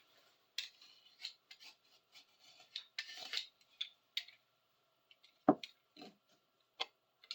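Dried gunk being scraped off a small metal hinge with a metal tool: a run of short, irregular scratchy strokes, with one sharper knock about five and a half seconds in.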